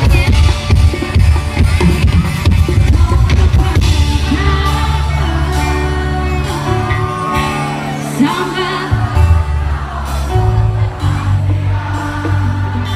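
Live band music played loud through a PA sound system, with a singer's voice over a heavy, sustained bass; the drums hit densely in the first few seconds.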